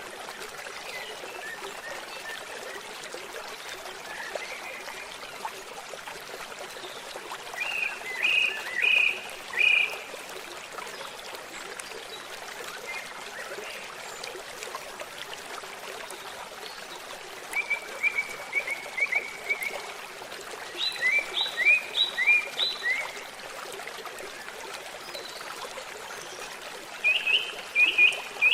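Babbling stream with birds singing: a steady rush of water, with short bursts of quick chirping notes about four times.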